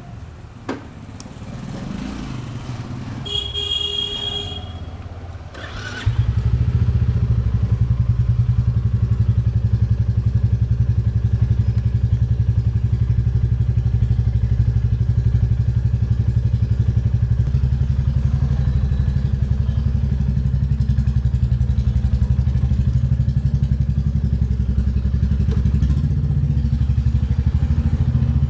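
Royal Enfield Bullet 350's single-cylinder engine: after a few clicks and a short tone, it starts abruptly about six seconds in and settles into a steady idle with a fast, even thumping beat.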